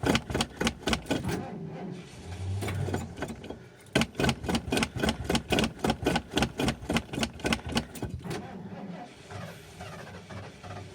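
Starter cranking the motorhome's engine in two bursts, with even beats of about five a second, without it catching. The engine had died and will not restart, which the owner takes for a serious problem.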